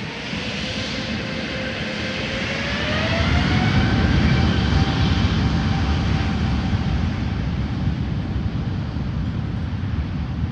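Airbus A350's Rolls-Royce Trent XWB jet engines spooling up to takeoff thrust: a whine rises in pitch about two to three seconds in, then holds steady over a loud, steady rumble.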